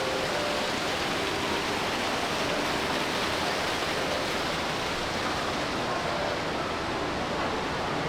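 A steady rushing hiss at a constant level, with faint fragments of distant voices.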